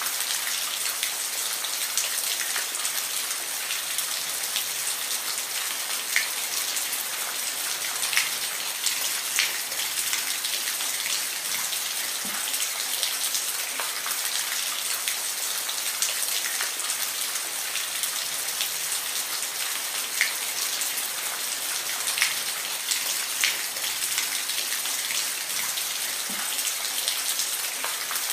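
Steady rain falling, a dense hiss with scattered louder individual drops ticking on a surface.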